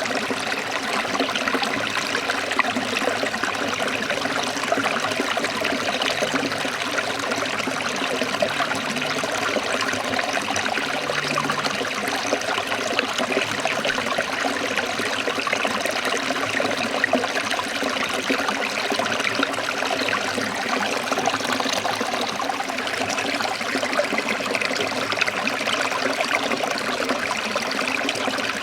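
Forest stream trickling and splashing over rocks, a steady rushing of water.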